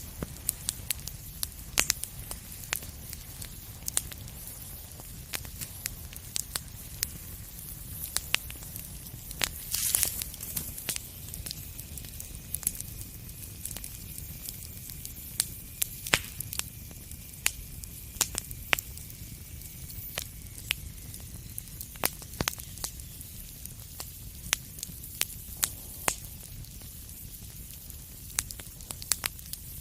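Wood fire in a fireplace crackling, with frequent sharp irregular pops over a low steady rumble. A louder hissing burst comes about a third of the way in, and a faint thin whistle holds for several seconds through the middle.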